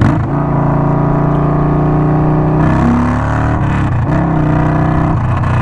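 Indian Scout Sixty's V-twin running through an unbaffled Hacker Mayhem 2-into-1 exhaust while the bike is ridden. The engine note holds steady, then changes pitch a few times from the middle on, dipping and climbing again.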